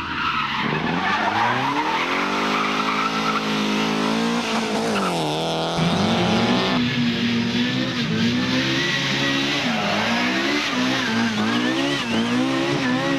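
Competition car engine revving hard, its pitch climbing and dropping again and again as it runs up through the gears and lifts off. The sound changes abruptly about six and seven seconds in, as if one car's run gives way to another's.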